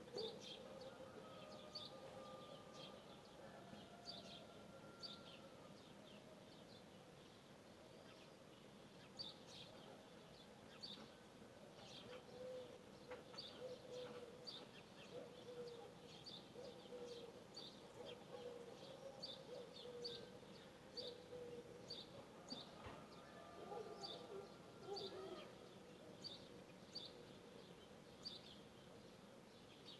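Birds chirping faintly in the open: short high chirps repeated about once a second, with a fainter, lower wavering sound in the middle.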